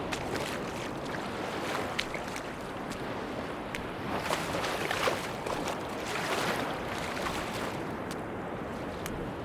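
Sea waves washing onto a beach: a steady rush of surf full of small crackles, swelling louder about halfway through.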